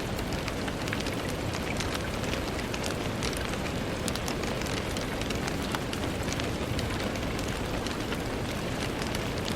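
Steady rain falling on a window, an even hiss full of small, close drop ticks.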